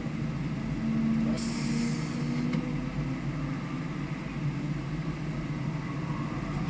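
Engine running at fairly steady revs, heard from on board the vehicle, with a short hiss about a second and a half in.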